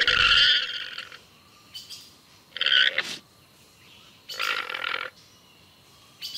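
Llama calling three times with harsh, noisy calls: one about a second long at the start, a shorter one near the middle, and another about four and a half seconds in.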